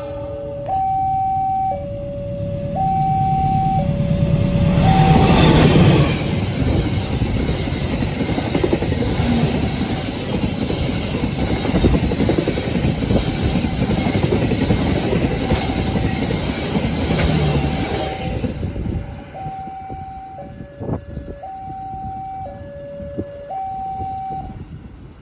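Level-crossing warning alarm alternating between two tones about once a second. A few seconds in, a fast passenger train's locomotive arrives and its coaches rush over the crossing as a steady rush of wheels on rail for about twelve seconds, drowning the alarm. Once the train has passed, the two-tone alarm is heard again and stops near the end.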